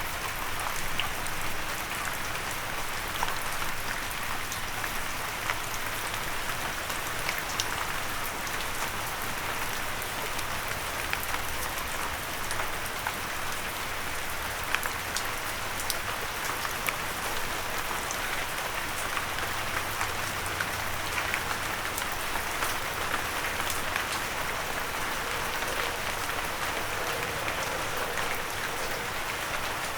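Steady rain falling, with many individual drops tapping sharply on a windowsill.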